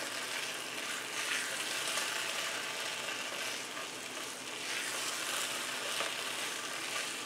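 Mashed potato and spice mixture sizzling gently in oil in a non-stick pan on low heat. A silicone spatula stirs and presses it, adding a few soft scraping swells.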